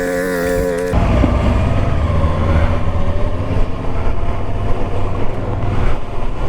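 Motorcycle engine running at road speed with heavy wind rumble on the onboard microphone, cutting in abruptly about a second in after a brief snatch of music.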